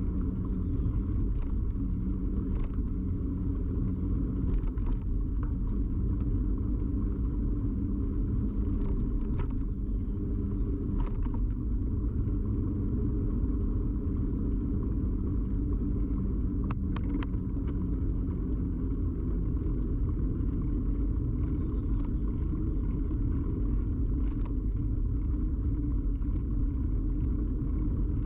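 Steady low rumble of a bicycle ride picked up by a camera mounted solidly on the bike: tyre and frame vibration carried straight into the microphone, with a few faint clicks and rattles here and there.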